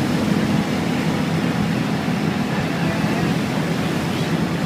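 Ship's engine under way, giving a steady low drone under a constant rushing noise.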